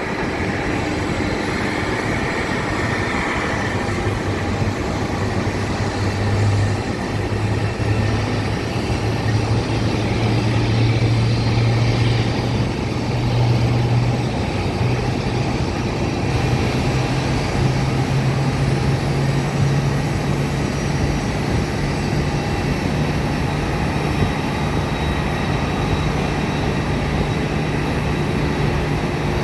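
Jet aircraft engines rumbling steadily, with a low hum that slowly rises in pitch.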